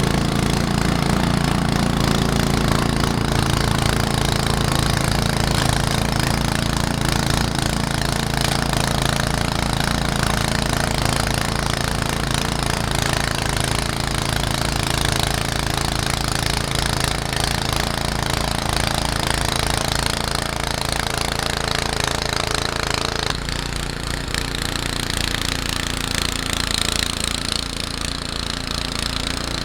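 Small carbureted gasoline engine of a walk-behind snowblower running steadily with a fast, even pulse, just started after a couple of primer pumps; its tone changes about three-quarters of the way through.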